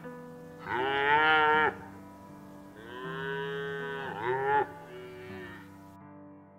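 Cow mooing twice: a short moo about a second in, then a longer, drawn-out moo that gets louder near its end.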